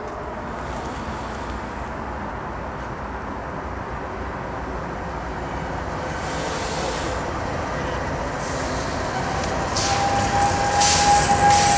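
CSX freight train led by GE diesel-electric locomotives approaching, its engines rumbling louder as it draws near. About two-thirds of the way in, a steady high whine joins the rumble.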